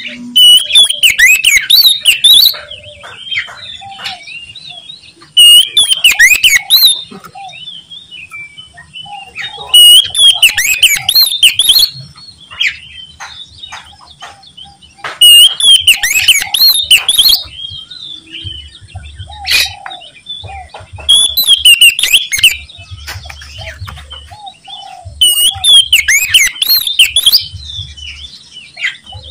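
Oriental magpie-robin (kacer) singing loudly in repeated vigorous phrases of rapid whistles and trills, about six bursts a few seconds apart with softer calls between.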